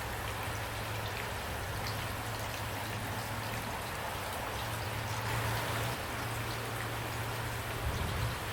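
Steady rain falling, an even hiss with many individual drops ticking through it. A steady low hum sits underneath, and there is a soft low thump near the end.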